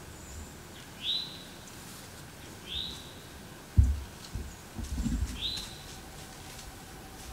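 A bird calling three times, each a short note that sweeps quickly upward, over a few low dull thumps. The loudest thump comes just before the middle.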